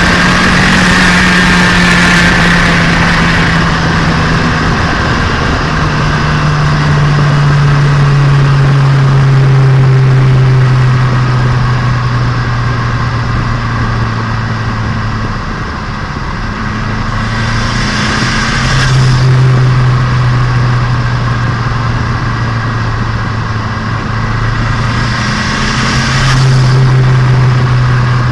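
Turbocharged Nissan Micra engine, heard from onboard while being run in, holding a steady pitch that steps down now and then. Two bursts of hiss come past the middle and near the end.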